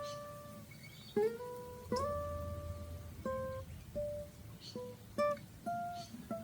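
Steel-string acoustic guitar playing a single-note blues lick. The first few notes slide up into pitch, then a run of shorter plucked notes follows.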